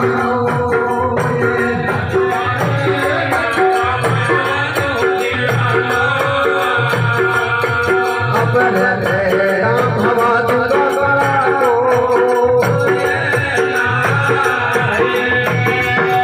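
Live Rajasthani folk bhajan music: held melody notes over a steady drum beat with jingling, rattling percussion.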